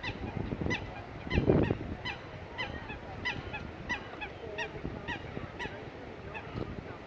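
Birds calling over and over in short repeated calls, about two a second, over steady low background noise. A louder burst of low noise comes about one and a half seconds in.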